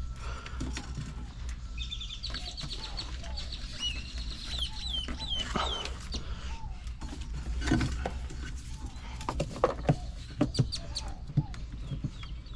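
Birds calling, with a run of rapid high chirps in the first half, over a steady low hum. Scattered sharp clicks and knocks, the loudest of them in the second half, come from parts being handled.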